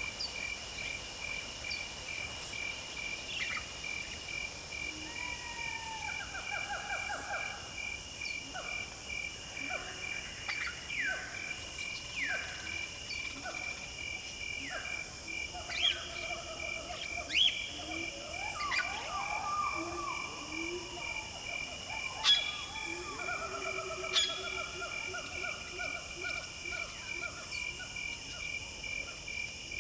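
Outdoor nature chorus: insects chirring in a steady pulsing rhythm with a fast even ticking underneath, while birds call over it with short falling whistles and longer drawn-out calls. A few calls stand out louder, about halfway through and near the end.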